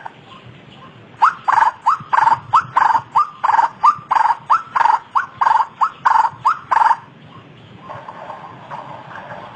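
White-breasted waterhen (ruak-ruak) calling: a fast run of repeated rising notes, about three a second, that starts about a second in and stops around two-thirds of the way through. A fainter, hazier sound follows.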